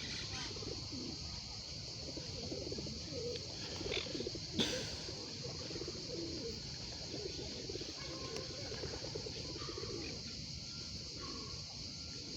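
Bird calls: many short, low, wavering coos and murmurs over a steady high hiss, with one sharp click about four and a half seconds in.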